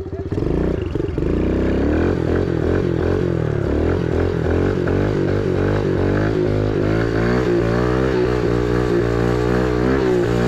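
Kawasaki KLX110 pit bike's small four-stroke single-cylinder engine pulling away from idle about half a second in, then revving up and down repeatedly as it is ridden.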